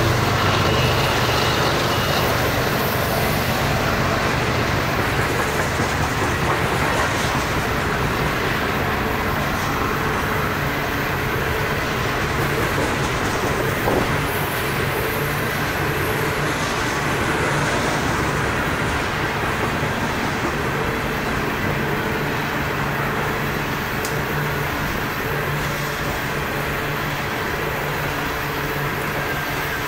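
Loaded-train rumble of CSX coal hopper cars rolling past on curved track: a continuous, steady rumble of steel wheels on rail.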